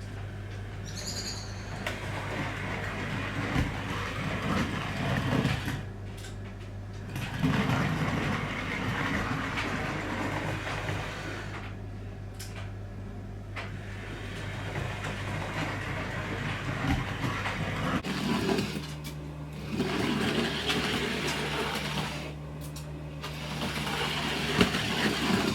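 OO gauge model locomotive running along the track: its small electric motor whirs and the wheels rattle and click over the rails. The wheel noise swells and fades, and about two-thirds of the way through the motor hum steps up in pitch.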